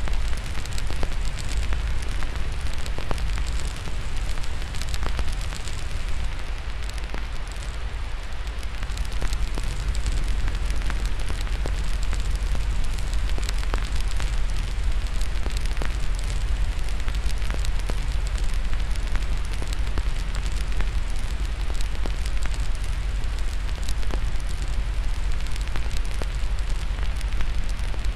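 Crackling fire laid over steady white noise: constant even hiss and deep low rumble, with frequent small sharp crackles and pops scattered throughout.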